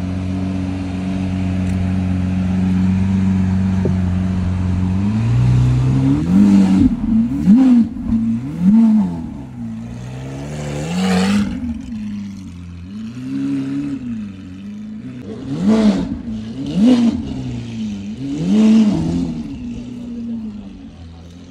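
Lamborghini Aventador SVJ's V12 engine running steadily, then revved again and again from about six seconds in, the pitch climbing and falling with each blip.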